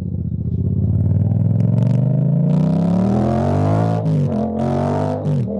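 Yamaha Tracer 7's 689 cc parallel-twin engine through an Akrapovic exhaust, accelerating: its pitch climbs for about four seconds, drops at an upshift, then climbs again before another shift near the end.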